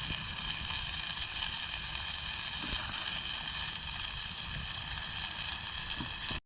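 Steady sizzling of steak frying in a pan over a campfire, with a few faint clicks, cut off suddenly near the end.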